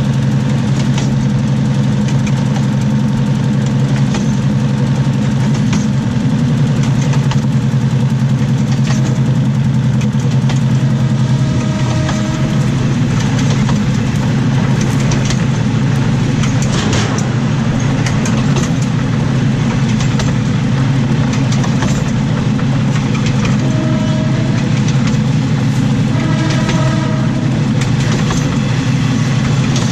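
Diesel railcar running on the rails, heard from beneath the carriage: the underfloor diesel engine drones steadily under the rush and scattered clicks of steel wheels on the track. A brief pitched tone sounds about twelve seconds in and twice more near the end.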